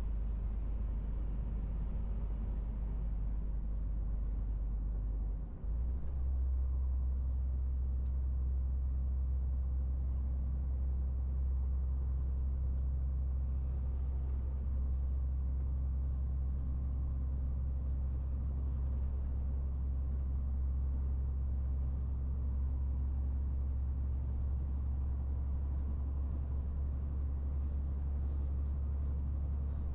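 MAN TGX 18.470 truck's inline-six diesel engine and road noise making a steady low drone while driving. About six seconds in, the drone dips briefly, then runs on slightly higher in pitch.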